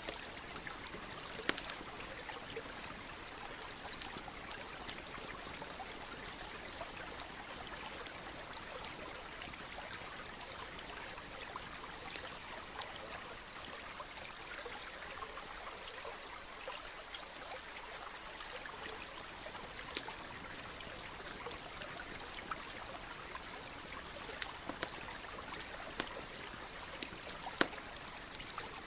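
Stream running steadily, with scattered sharp pops and crackles from a wood campfire.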